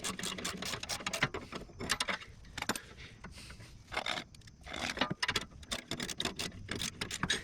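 Metal hand tools working on the bolts: a dense run of rapid metallic clicks for about the first second, then scattered clicks and scrapes.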